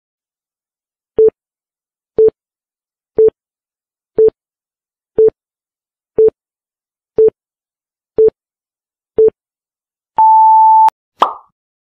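Countdown-timer sound effect: nine short low beeps one second apart, then a longer, higher beep as the timer reaches zero, followed by a short pop.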